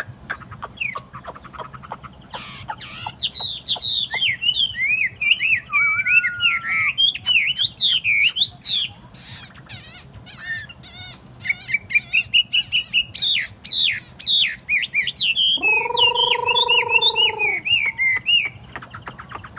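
Chinese hwamei singing a fast, varied song of quick whistled phrases and rapid trills, with one long, much lower note about 16 seconds in.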